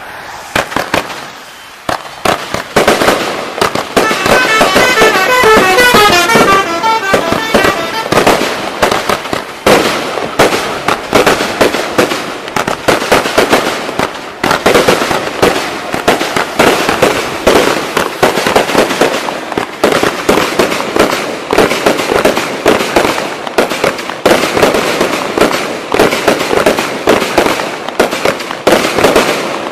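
Fireworks going off in a rapid, continuous barrage of crackling bangs, starting about a second in and densest a few seconds later.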